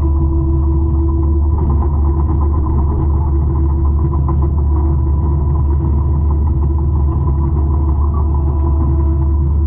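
A 200-horsepower forestry mulcher running steadily, with a constant low engine drone and a steady whine above it.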